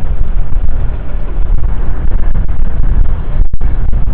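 Loud, steady low rumble of street noise, cutting out briefly about three and a half seconds in.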